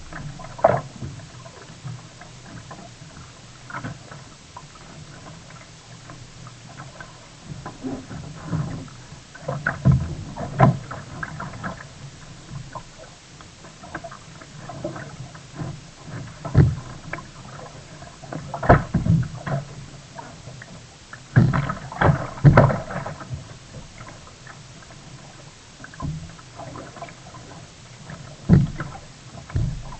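Sea kayak out on the water: irregular splashes and knocks, from paddling and water slapping the hull, over a steady background noise. They come every second or few, with a louder cluster a little past the middle.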